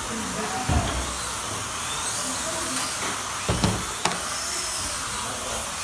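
Slot car electric motors whining, their pitch rising and falling as the cars speed up and slow down, over a steady hiss. A few short knocks land about a second in and again around three and a half to four seconds in.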